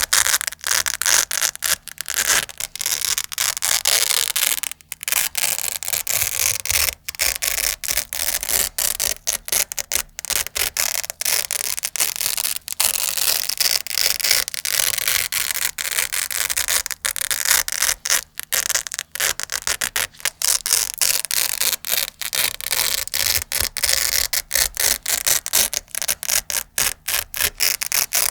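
Velcro hook-and-loop fastener being pulled apart and rubbed close to the microphone: continuous crunchy, scratchy ripping broken by many short pauses.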